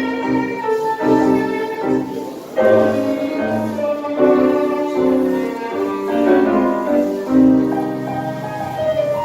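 Live tango music from a small ensemble, with piano and violin playing melody and chords over a rhythmic bass.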